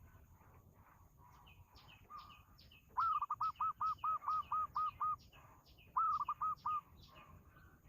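Birds calling: a fast run of clear, repeated notes, about five a second, lasting about two seconds, then a shorter run of four notes a second later. Throughout, a second bird makes thin, high chirps at a similar rapid pace.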